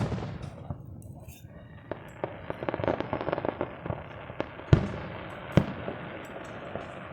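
Aerial fireworks bursting: a sharp boom at the start, a spell of rapid crackling about two to four seconds in, then two more booms a little under a second apart near the five-second mark.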